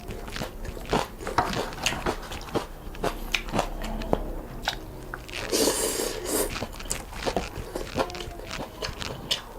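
Close-miked eating of noodles and soup: chewing with many small, wet mouth clicks, and a longer noisy slurp a little past halfway.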